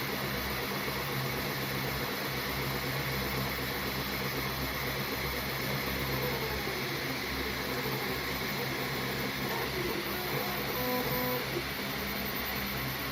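Steady mechanical hum and hiss from a small motor or fan, with a few faint short tones in the second half.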